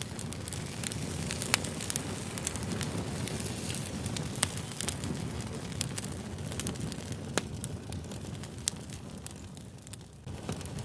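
Fire crackling: a steady low rush of flames with sharp, irregular pops every second or two.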